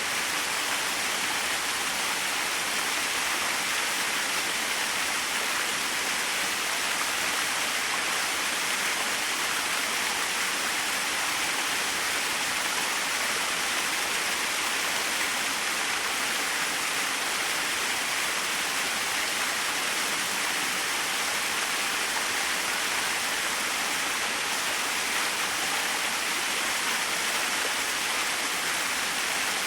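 Small waterfall splashing steadily, a constant hiss of falling water with little low rumble.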